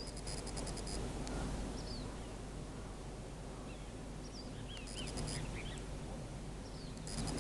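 Small birds calling outdoors: scattered short, high falling chirps, with a cluster between about four and six seconds in. A rapid, very high ticking trill comes in briefly at the start, again about five seconds in and near the end. A steady low rumble runs underneath.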